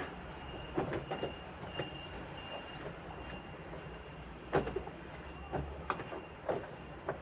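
Scattered light knocks and clatter of containers and food items being handled while a refrigerator is cleaned out, over a low steady hum.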